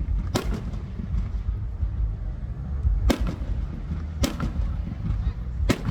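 Aerial fireworks shells bursting: four sharp bangs at uneven intervals, each with a short echoing tail, over a steady low rumble.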